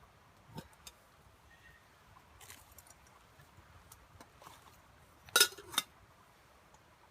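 Small handling noises of camp gear, then two sharp metallic clinks with brief ringing, about half a second apart, near the end.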